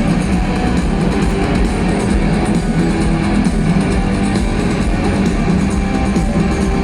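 Rock music: strummed and electric guitars over bass, playing steadily.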